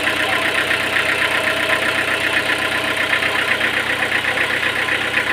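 An engine running steadily at idle, with a rapid, even beat.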